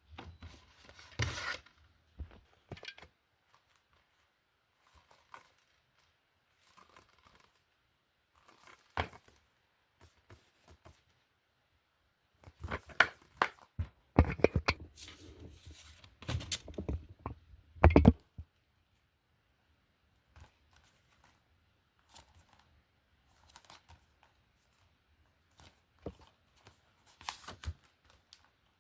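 Objects being handled close to the microphone: scattered clicks, knocks and rustling, with a busier run of knocks and rattles in the middle.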